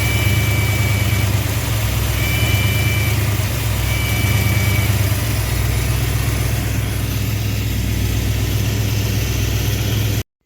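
Engine with a Carter Thermoquad four-barrel carburetor running steadily. A thin, high whistle comes and goes three times in the first five seconds, each lasting about a second. This is air being sucked in through a vacuum leak at part throttle, which the owner puts down to a worn primary throttle shaft. The sound cuts off abruptly near the end.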